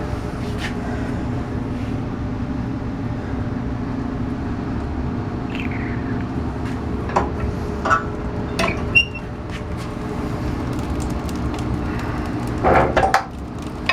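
Coal furnace running with a steady low hum and a faint held tone. A few scattered clicks and knocks sound in the middle, and a short louder scrape comes near the end.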